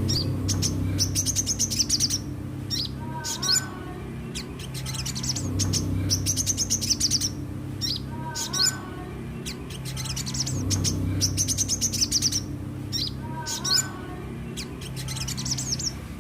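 Sogon (ruby-cheeked sunbird) singing: rapid high, thin chirps and short trills with a few lower falling notes. The same song phrase repeats about every five seconds over a steady low hum.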